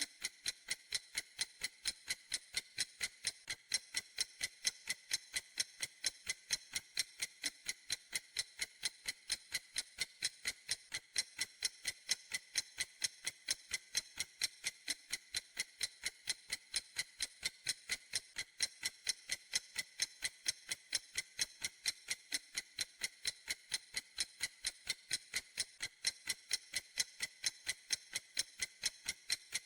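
Clock ticking in a steady, even rhythm of light, bright ticks with almost nothing in the low end.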